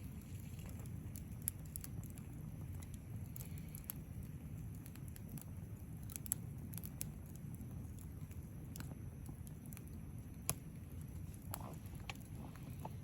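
Wood fire burning in a fire pit, crackling with scattered sharp pops over a low steady rumble.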